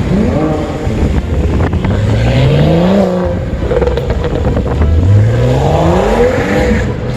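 Car engine revving hard twice, its pitch climbing for about a second and a half each time, with a steadier engine note between the two runs.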